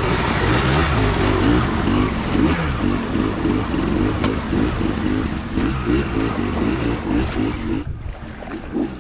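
An off-road vehicle's engine revs up and down over and over as it drives, with a rushing hiss over it that cuts off sharply near the end.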